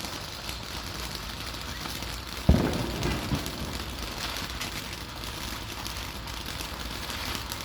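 Firework fountains spraying sparks with a steady hiss, and a single loud low thump about two and a half seconds in.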